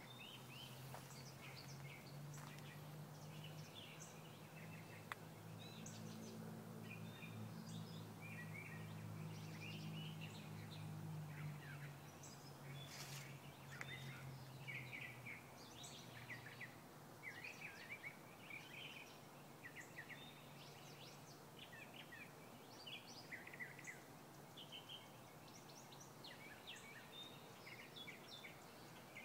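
Faint birdsong: several small birds chirping and trilling in short phrases, overlapping throughout. A low steady hum runs under them through the first half and fades out about halfway.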